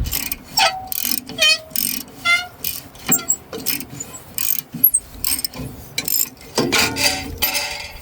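An old Gravely walk-behind tractor's rusty mechanism being worked by hand: irregular ratcheting clicks and rattles, about two a second, with short metallic squeaks among them.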